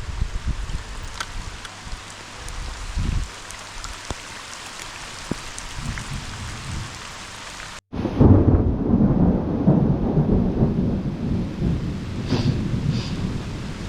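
Steady rain falling during a thunderstorm, with a faint low rumble. After a brief break a little past halfway, a loud low rumble of thunder runs through to the end over the rain.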